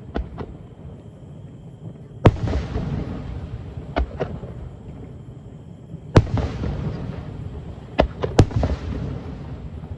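Aerial fireworks shells bursting overhead: about eight sharp bangs, the two loudest a little after two seconds in and just past the middle, each followed by a rolling rumble that dies away over a second or two.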